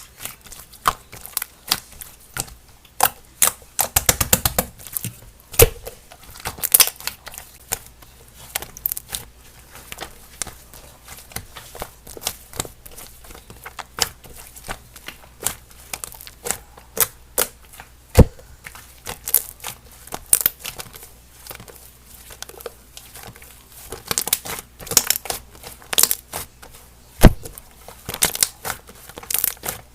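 Slime being squeezed and pressed by hand, making irregular sticky clicks, pops and crackles, with a dense run of crackling about four seconds in.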